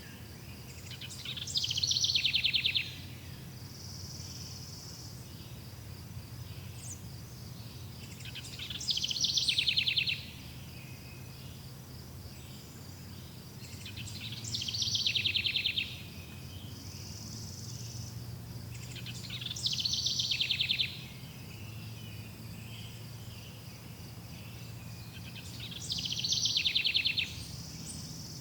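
A bird sings the same rapid, high trill five times, about every six seconds. Each trill lasts about a second and a half, swells and stops abruptly. Between the trills a steady high insect buzz and a faint low rumble continue.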